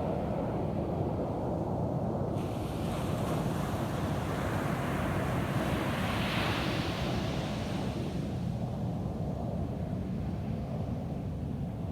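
Ocean surf on a beach: a continuous low rumble of waves, with one wave breaking and washing in, its hiss swelling from about two seconds in, loudest around six seconds and fading away by about eight.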